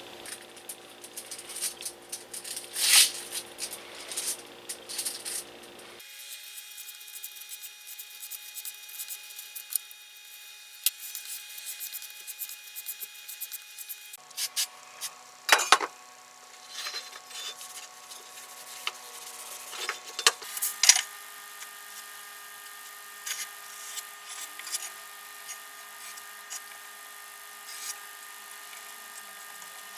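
Hand-work sounds from tools on parts: scattered clicks, taps and short scrapes over a faint steady hum. The background changes abruptly three times.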